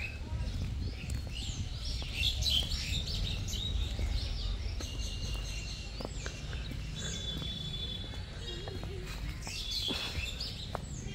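Birds chirping and trilling in short, scattered calls, busiest about two seconds in and again near the end, over a steady low outdoor rumble.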